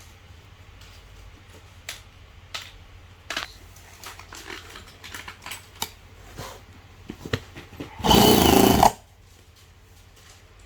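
Scattered clicks and knocks of hands and tools on a model engine, then about eight seconds in a loud burst of just under a second as the TOYAN miniature twin-cylinder engine is turned over in a brief start attempt.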